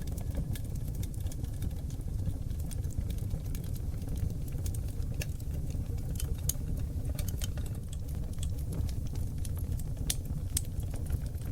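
Seasoned oak logs burning in a wood fireplace. A steady low rumble of flames runs under frequent sharp crackles and pops, and several louder pops come in the second half.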